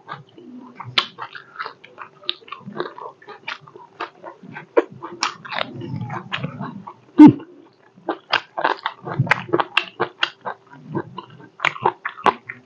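Close-miked chewing and lip-smacking: a quick, irregular run of wet smacks and crunches from a mouthful of rice, meat and fresh greens, with one louder smack a little past seven seconds in. A faint steady hum runs underneath.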